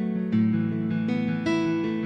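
Background music: gentle plucked acoustic guitar, a new note or chord coming in every half second or so.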